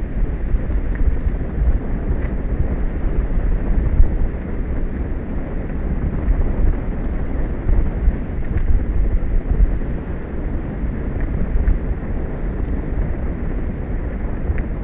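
Strong wind buffeting the microphone: a loud, dense low rumble that gusts up and down with no distinct events.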